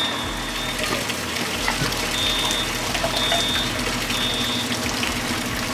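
Steady rush of water from a discharging fire sprinkler system, with a short, high electronic beep repeating about once a second over it.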